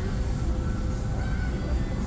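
Steady low rumble, like a vehicle cabin or engine drone, with faint music.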